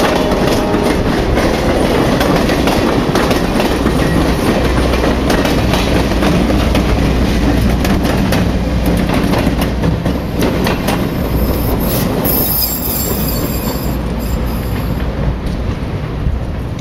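A passenger train with a diesel locomotive rolling past at close range, its wheels clacking over the rail joints over a steady low rumble. A high wheel squeal sounds about twelve seconds in, and the sound eases a little near the end as the train moves off.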